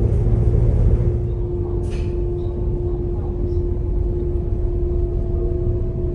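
Passenger train running along the line, heard from inside the carriage: a steady rumble of wheels and track with a constant hum, and a brief hiss about two seconds in.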